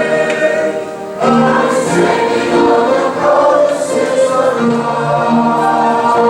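A choir singing a worship song, sustained voices with a short break between phrases about a second in.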